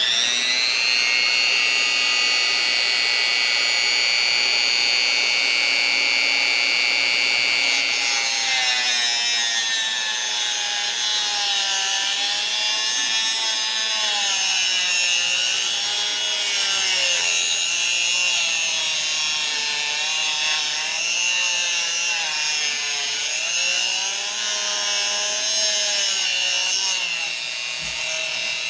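Dremel rotary tool spinning up to a steady high whine. About eight seconds in, its pitch starts to sag and recover over and over as the cutting wheel bites into a seized, stripped Allen-head bolt, cutting a straight slot for a flat-head screwdriver.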